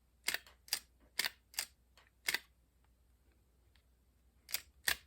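Sharp mechanical clicks, about two a second, with a pause of about two seconds in the middle: a Macintosh external floppy drive's eject mechanism being worked by hand, an eject that is gummed up and sticking.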